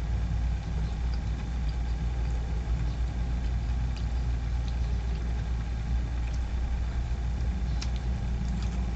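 Steady low mechanical rumble with faint even tones, like an engine or machine running without change, with a few faint clicks over it.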